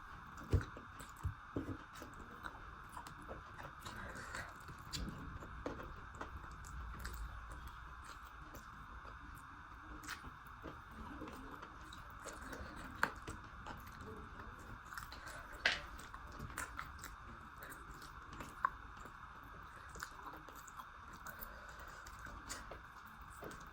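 Close-miked chewing and mouth sounds of a person eating rice and chicken curry, with many small scattered clicks and smacks over a steady background hiss.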